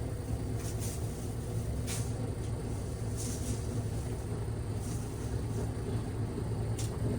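Steady low hum with about five brief, faint crinkles of plastic masking film being handled.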